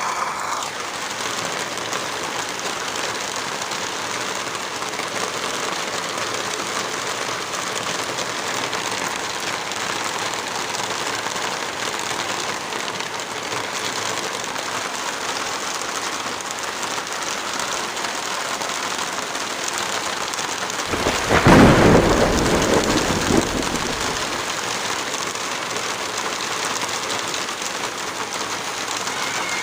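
Heavy rain falling steadily, with a deep rumble lasting about three seconds a little over two-thirds of the way through.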